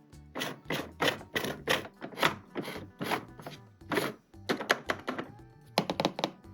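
Hard plastic toy pieces being handled, giving a quick irregular run of clacks and taps, about three a second, over faint background music.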